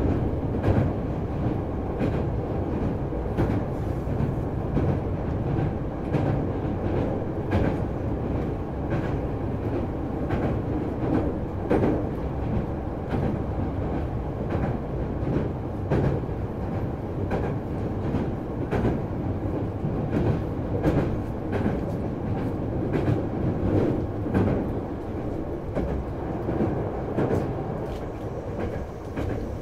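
Hankyu 8000 series electric train heard from inside the car while running: a steady rumble of wheels on rail with frequent clacks over rail joints, easing slightly near the end.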